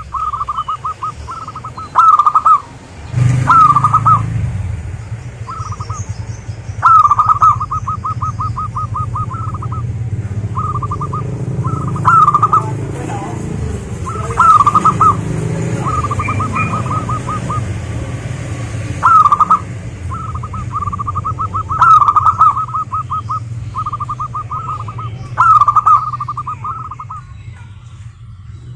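Zebra doves singing: repeated phrases of rapid, staccato cooing notes, some phrases louder than others, going on throughout. A low rumble sits underneath for much of the time.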